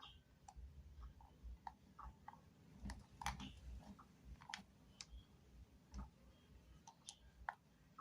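Faint, irregular clicks and taps of small objects being handled, with a denser cluster about three seconds in.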